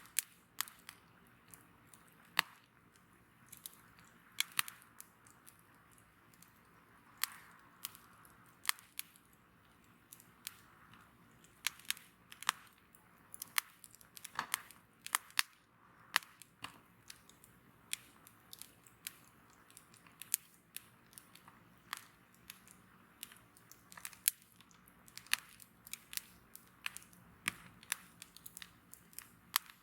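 Wood bonfire crackling: sharp, irregular pops, about one or two a second, over a soft hiss from the burning fire.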